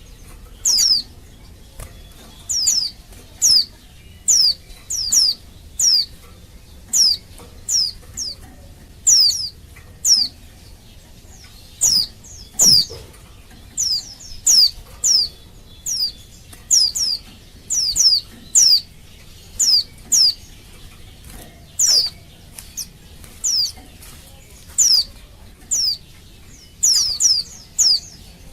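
Female white-eye (pleci) calling: short, high, downward-sweeping notes repeated about once or twice a second, often in quick pairs or runs of three. This is the female's call to males, used as a lure to set male white-eyes singing.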